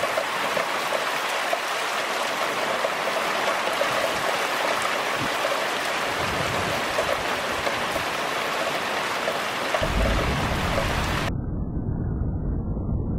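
Heavy rain falling steadily, a dense hiss with the patter of drops hitting a surface. About ten seconds in, a low rumble of thunder comes in under the rain.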